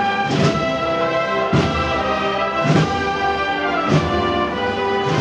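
Spanish processional band (banda de música) playing a slow processional march: brass-led held chords, with a drum and cymbal stroke about once a second marking the beat.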